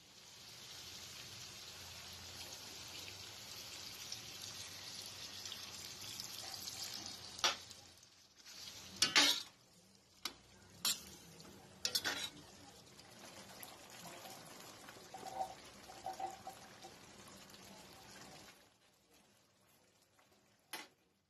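Callos (beef tripe and chorizo in tomato sauce) sizzling in a stainless steel pan while a metal ladle stirs it, with several sharp clinks of the ladle against the pan in the middle. The sizzle fades out a few seconds before the end.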